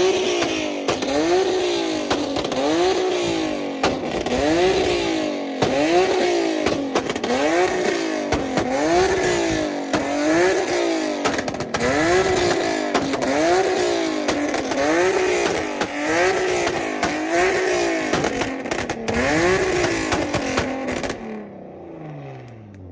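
A car engine being revved over and over, its pitch rising and falling about fifteen times in a steady rhythm. Near the end the revving stops and the engine note fades as its pitch falls away.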